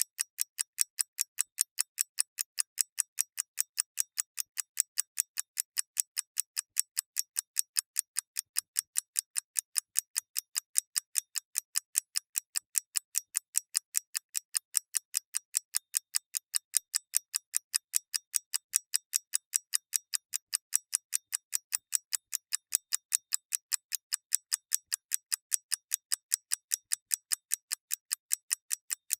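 Mechanical clock ticking steadily: quick, even, crisp high-pitched ticks, several a second, with no low end.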